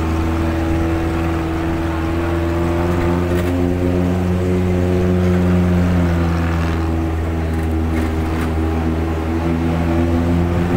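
Jeep engine running steadily while driving, a continuous drone whose pitch rises a little near the end.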